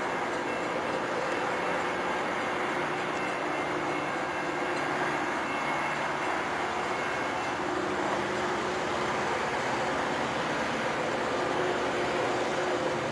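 Steady rumbling noise of a train on the tracks, growing a little louder near the end as the locomotive approaches.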